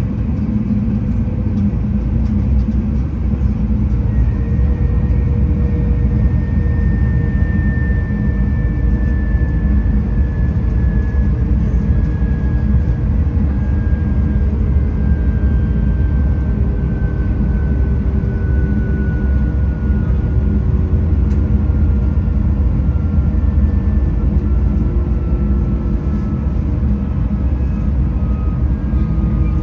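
V/Line VLocity diesel multiple unit running along the line, heard from inside the carriage: a steady low rumble with a faint whine that slowly falls in pitch.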